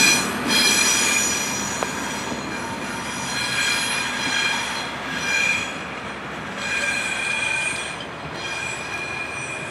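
Steel wheels of a passing rail vehicle squealing on the rails in high-pitched stretches that start and stop over a rumble. The whole sound slowly fades as the vehicle moves away.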